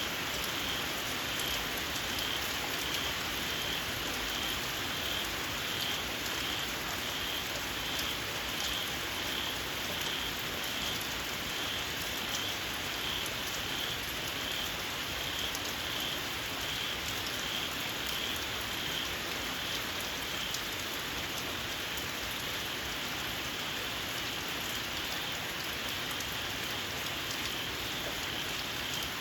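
Steady rain falling, with a small frog calling a short, high-pitched, shrill note over and over, about twice a second, fading somewhat in the second half.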